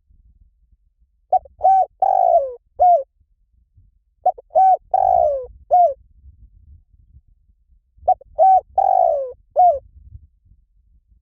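Spotted dove cooing: three phrases about three to four seconds apart, each a few short coos around one longer falling note.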